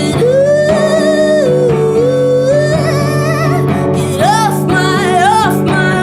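A song performed live: a singer holding long, drawn-out notes that waver and climb near the end, over guitar accompaniment.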